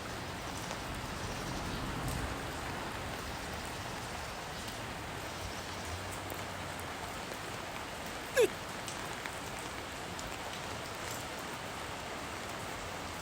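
Steady rain falling, an even hiss of rain on surfaces. About eight seconds in, one short, sharp sound sliding down in pitch rises briefly above it.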